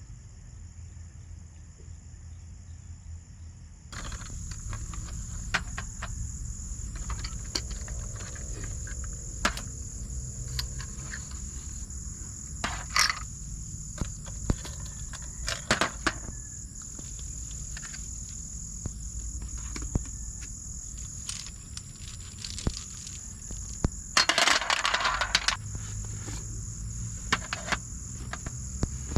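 Steady high-pitched chirring of crickets and other insects, starting abruptly about four seconds in, with scattered light clinks and knocks throughout and a short louder rustle near the end.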